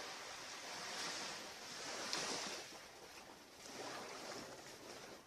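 Sea waves washing onto a beach, swelling and easing off about three times.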